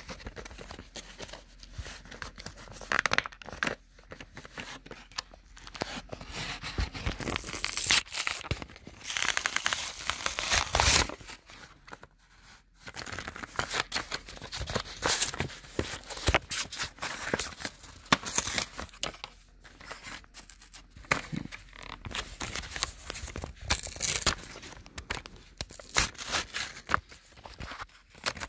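Toy packaging being torn open and crinkled by hand: irregular bursts of tearing and rustling, with a short lull about twelve seconds in.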